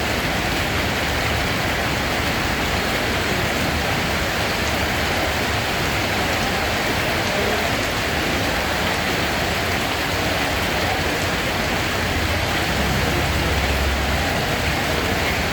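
Steady rain falling, a dense even hiss of drops with no breaks. A low rumble swells briefly about 13 seconds in.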